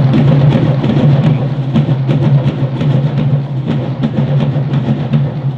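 Marching band playing: a drumline beats out a fast rhythm over a held low note.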